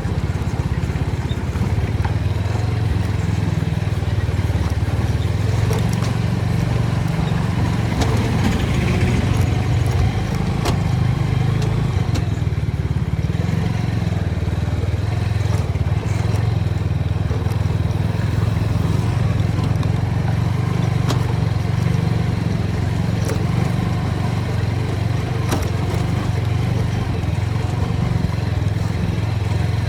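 TVS Apache motorcycle running steadily while being ridden: a constant low drone with occasional faint clicks.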